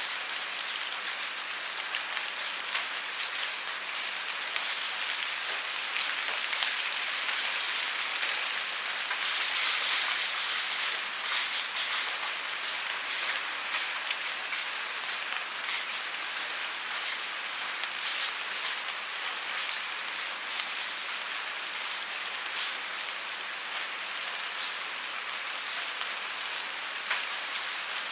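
Steady rainfall, with many small drops pattering on a surface. It grows a little heavier about a third of the way in, then eases back.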